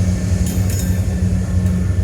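Steady low rumble of a coal train running past, heard through a vehicle window, with a few faint clinks in the first second.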